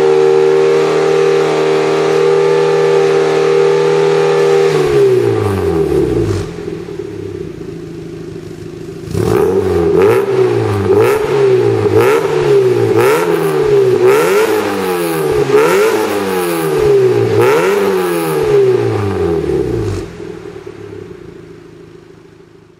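Mazda Roadster NB8C's 1.8-litre four-cylinder engine through a one-off 57.2 mm stainless-steel exhaust. The engine is held at steady raised revs for about five seconds and falls back to idle. About four seconds later it is revved in a string of quick throttle blips, roughly one a second, then drops back and fades out.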